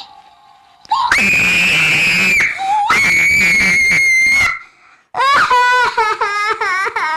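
Two long, high-pitched screams, each held about a second and a half, followed by a run of short wavering crying wails.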